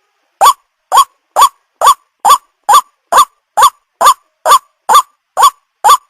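White-breasted waterhen (ruak-ruak) giving its call over and over, a short rising-then-falling note repeated about twice a second, starting about half a second in. This is a recorded call loop used as a lure to attract the birds.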